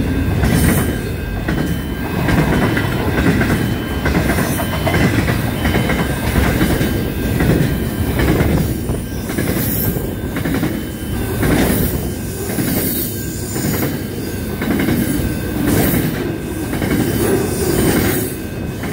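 Freight train of double-stacked container wagons rolling past close by: a heavy steady rumble with wheels clacking over the rail joints. It swells and fades as each wagon goes by, and a faint high wheel squeal comes and goes.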